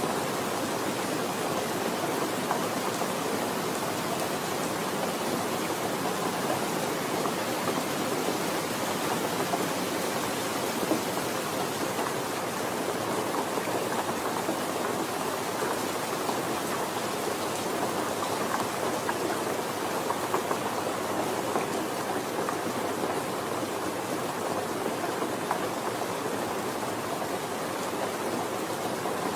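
Steady, even rainfall, a continuous patter of rain with no breaks or changes in level.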